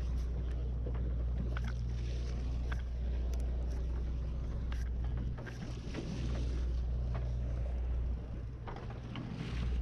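Sportfishing boat's engine running with a steady low hum that dips briefly twice in the second half, with scattered light knocks and clicks from the deck.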